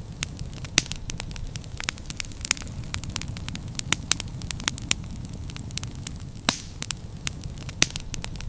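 Wood fire crackling, with irregular sharp pops and snaps, a few of them loud, over a steady low rumble of the flames.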